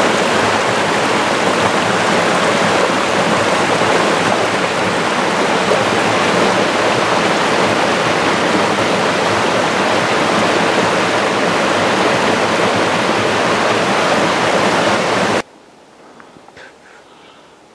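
Loud, steady rush of mountain creek water tumbling over rocks. It cuts off abruptly near the end, leaving only a few faint small sounds.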